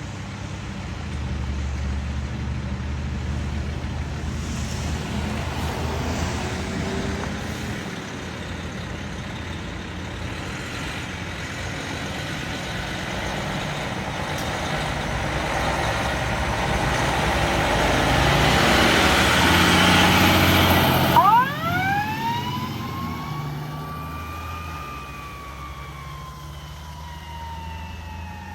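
Fire apparatus on an emergency response: the heavy diesel engine rumble grows louder as the rig approaches and passes, loudest about twenty seconds in. It drops off suddenly, and a siren then winds up quickly, climbs a little more and slowly falls away in a long wail.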